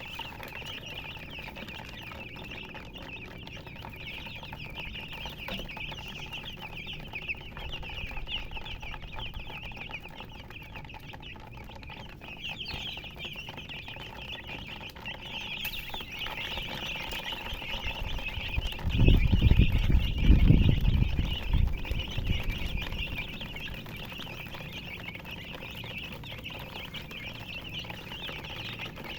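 A brood of baby chicks peeping continuously in many overlapping high chirps. About two-thirds of the way through, a loud low rumble lasts about three seconds under the chirping.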